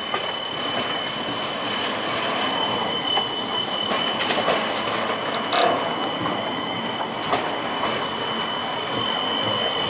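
CAF Urbos 3 tram running on its rails: steady running noise with a thin high-pitched tone held over it. Irregular short knocks and clicks sound through it, the loudest a little past the middle.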